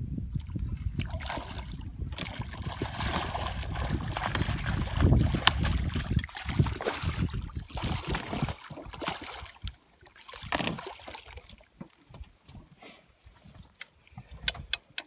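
Water splashing and sloshing for most of the first ten seconds, loudest about five seconds in. After that come a few scattered clicks and knocks.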